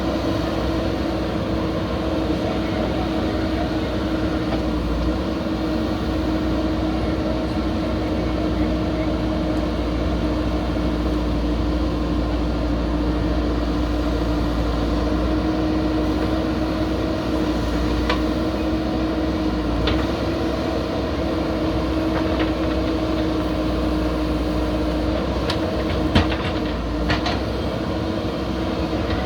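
Backhoe loader's diesel engine running at a steady speed, with a few short knocks and one sharper clank near the end.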